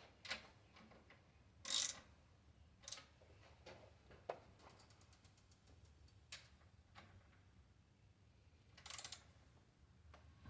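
Bicycle wheel and tire being handled: scattered knocks, clicks and two short scraping rustles, with a brief run of rapid ratchet-like ticking about halfway through.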